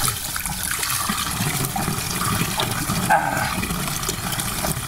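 Running water, a steady rushing splash.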